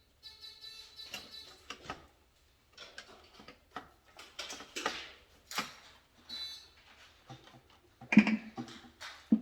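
Scattered small clicks, knocks and rattles of hand tools and electrical parts being handled during control-panel wiring work, with a louder knock about eight seconds in.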